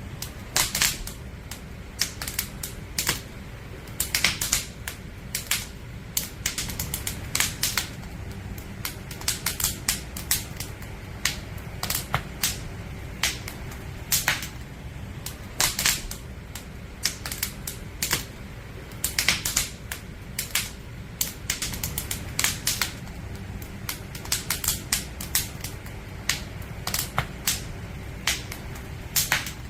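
Burning firewood in a campfire crackling, with irregular sharp pops and snaps, some in quick clusters, over a steady low rumble of the flames.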